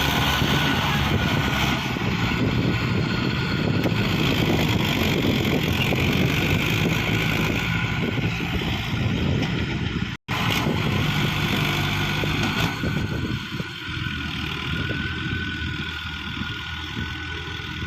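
Tractor diesel engine running steadily, with a momentary break about ten seconds in and a slightly lower level near the end.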